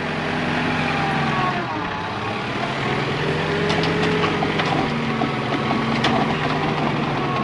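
Diesel engine of a John Deere 120 excavator running steadily, with a few light clicks about six seconds in.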